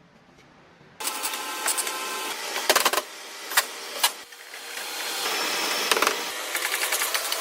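Workshop tool noise: after about a second of near quiet, machine whirring with several sharp knocks in the middle, then a steadier run of machine noise.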